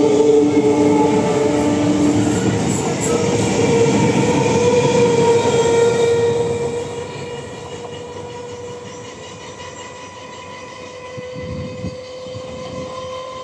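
Indian Railways EMU local train pulling out: the coaches roll past with loud running noise and a steady electric motor whine that rises slightly in pitch as it gathers speed. The noise drops about six seconds in, once the last coach has passed, and fades as the train pulls away.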